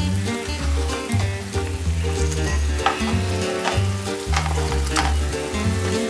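Potato cheese pancakes sizzling as they shallow-fry in oil in a nonstick pan. Wooden spatulas click and scrape against the pan a few times as the pancakes are turned. Background music with a low bass line plays underneath.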